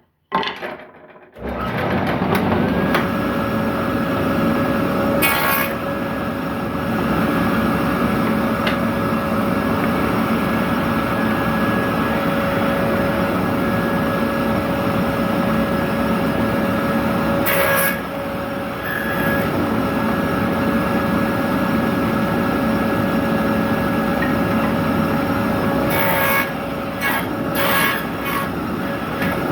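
Electric woodworking saw switched on about a second and a half in, then running with a steady whine while dado cuts are passed through wooden pallet pieces. Short louder hissy bursts of blade cutting wood come several times, near the end in a quick cluster.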